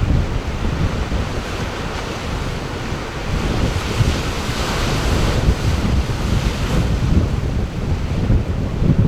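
Sea surf washing and breaking, with wind buffeting the microphone. The wash swells louder about halfway through.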